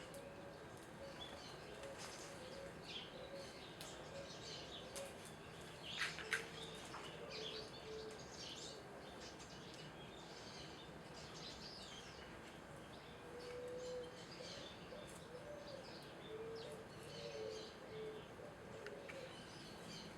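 Small birds at a feeder chirping and twittering in short, scattered calls, one louder chirp about six seconds in. Lower cooing notes come now and then.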